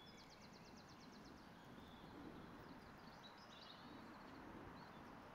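Near silence: faint outdoor ambience with birds chirping, including a quick trill of evenly spaced notes in the first second or so.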